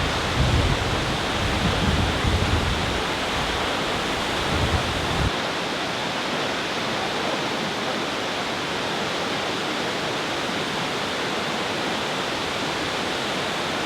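Nachi Falls, a waterfall with a 133 m drop, rushing as a steady, even roar of falling water. Low uneven rumbles sit under it for the first five seconds and stop abruptly.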